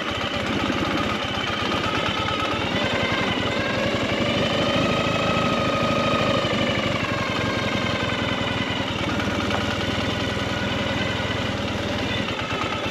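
Motorcycle engine running at low speed with a rapid, even chugging. Its pitch rises a little around the middle and falls back.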